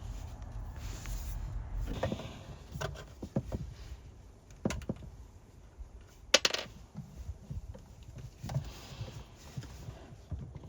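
Scattered knocks and clicks of hand work in a small room, with one sharp clack about six seconds in, over a low rumble that fades about two seconds in.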